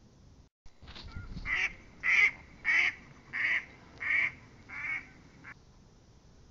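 A bird calling six times in an even rhythm, about one call every two-thirds of a second, then stopping.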